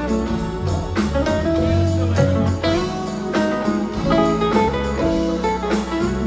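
Live smooth jazz band playing, with a guitar lead over bass and drums keeping a steady beat.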